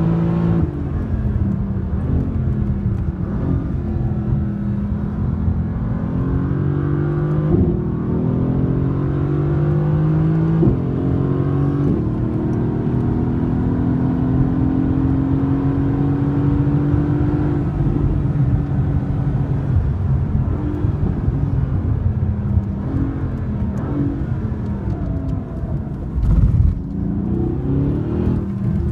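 Mercedes-AMG GT's twin-turbo 4.0-litre V8 heard from inside the cabin under hard track driving: the engine note climbs through the revs and drops sharply at two upshifts, pulls up in one long climb, then falls away with short rev rises as the car slows and downshifts. A brief low thump near the end.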